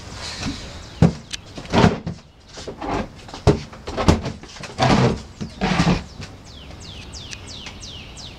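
A run of loud, irregular rustles and knocks over the first six seconds or so, then a bird calling with quick, sharp chirps that sweep downward, two or three a second.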